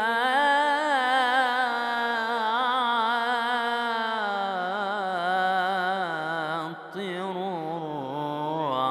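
A male reciter singing an Arabic ibtihal, a devotional supplication, drawing out a single phrase in long held notes with wavering, melismatic ornamentation.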